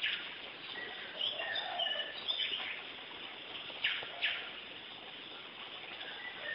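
Birds chirping in the background: scattered short high chirps and a few lower gliding notes over a steady hiss, with two faint clicks a little past the middle.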